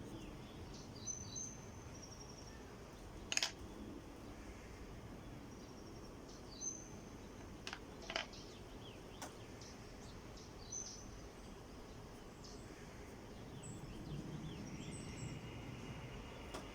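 Faint background noise with short, high bird chirps every second or two, and a few sharp clicks or taps, the loudest about three and a half seconds in.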